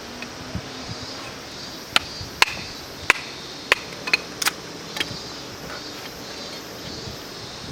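Wood being chopped or split: a run of about seven sharp knocks, roughly half a second apart, from about two to five seconds in.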